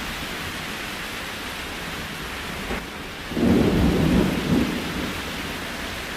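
Steady rain hiss, with a low rumble that swells about halfway through and dies away over a second or so.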